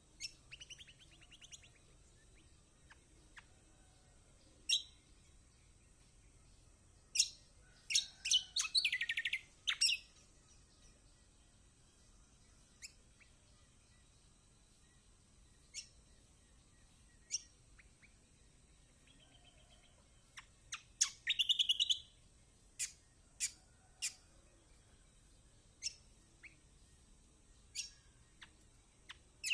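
Kecial kuning (a white-eye) calling in scattered short, high chips, broken by a few quick chattering trills. The loudest trills come about a quarter of the way in and again about two-thirds through.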